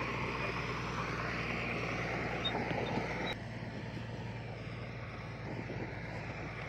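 Diesel engine of heavy earthmoving machinery running steadily. A little over three seconds in the sound cuts abruptly to a quieter engine hum.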